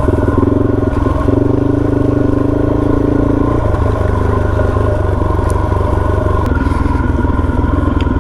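Suzuki DRZ400's single-cylinder four-stroke engine running as the trail bike is ridden down a hill, its note easing back about three and a half seconds in.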